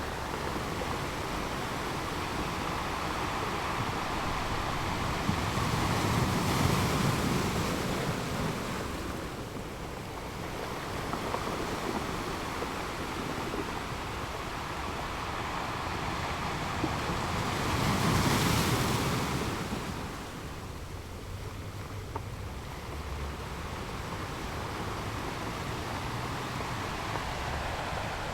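Ocean surf: rolling waves washing in as a continuous rush of water, swelling louder twice, once a few seconds in and again past the middle.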